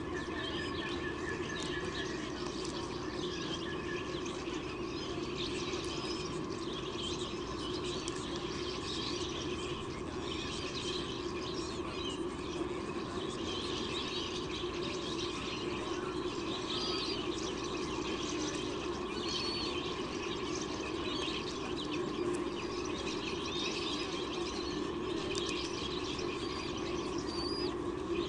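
Many short, high bird chirps scattered throughout, over a steady background hum.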